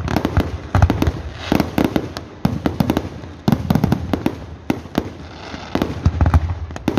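Aerial fireworks display: shells bursting in a rapid run of sharp bangs that come in clusters, one burst after another.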